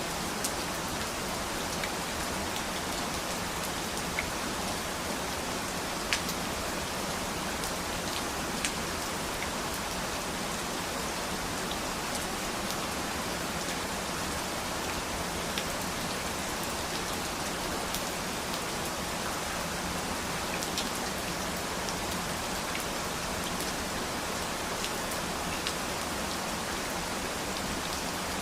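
Steady rainfall, an even hiss of rain with individual drops tapping sharply every second or two.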